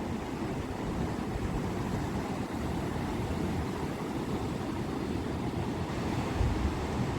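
Sea waves washing onto the shore, a steady, deep surf noise, with a short low gust of wind on the microphone about six and a half seconds in.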